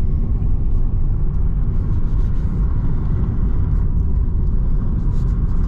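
Steady low rumble of a car driving along a road, heard from inside the moving vehicle.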